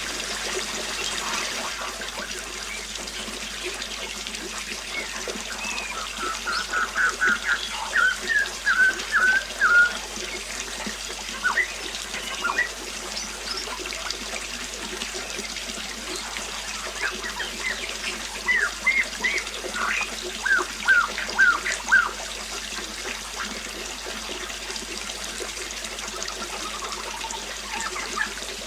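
Water trickling steadily, with a small bird singing a quick run of short chirped notes about a quarter of the way in and again a bit past halfway.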